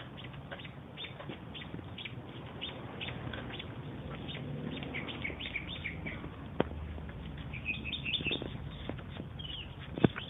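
Small birds chirping: many short high chirps, with a denser run of chirps about eight seconds in.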